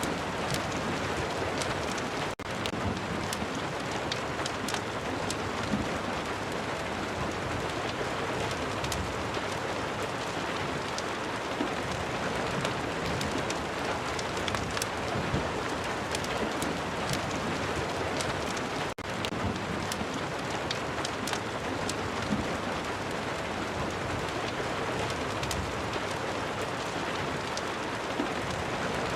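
Steady rain with many scattered sharp crackles and ticks, as of a fireplace crackling alongside. The sound drops out briefly twice, once after about two seconds and again a little past the middle.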